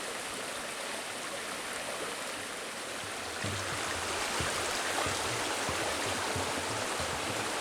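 Creek water running steadily, an even rushing hiss. From about halfway through, a few soft low thumps join in.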